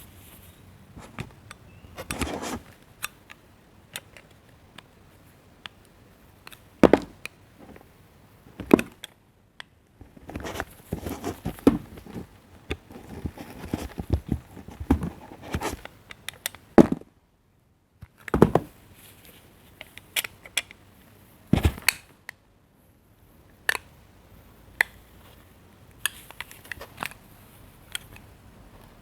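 A knife cutting and carving bars of soap: short crisp scraping and crunching strokes in irregular clusters, with a second of dead silence just after the middle.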